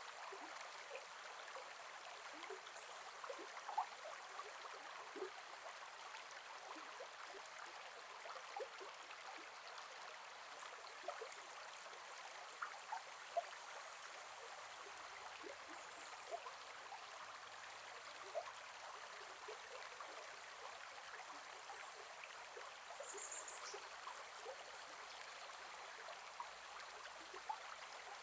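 Gentle forest river flowing: a steady, soft rush of water with many small plops and gurgles. A brief high chirp comes about four-fifths of the way through.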